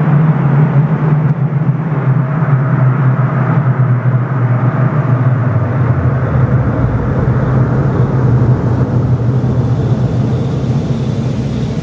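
Mazdaspeed Axela's 2.3-litre turbocharged four-cylinder running through a GP Sports EXAS EVO Tune aftermarket muffler: a deep, steady exhaust drone under road noise. The pitch dips a little about halfway through and the sound eases off slightly near the end.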